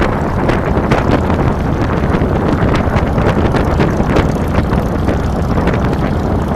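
2007 Harley-Davidson Fat Boy's air-cooled V-twin engine running steadily under way, with wind buffeting the handlebar-mounted microphone.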